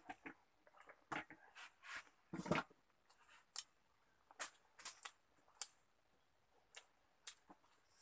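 A person eating with the fingers and chewing with an open mouth: irregular wet smacks and clicks of chewing. There are two longer, louder noisy sounds, one right at the start and one about two and a half seconds in.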